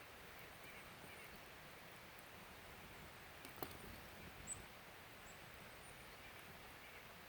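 Quiet outdoor ambience: a faint steady hiss with a few small, high, brief chirps and a single sharp click about three and a half seconds in.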